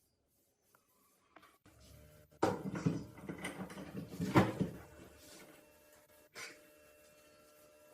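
Knocking and scraping of hard parts being handled, starting suddenly about two and a half seconds in, with the sharpest knock near four and a half seconds and one more short knock later.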